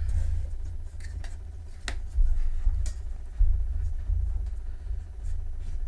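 Handling noise: a low, uneven rumble with a few light clicks and knocks as equipment is moved and set in place on a workbench.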